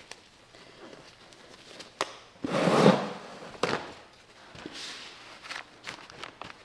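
Scattered clicks and knocks of tools and metal parts being handled, with a short loud rustling burst about two and a half seconds in.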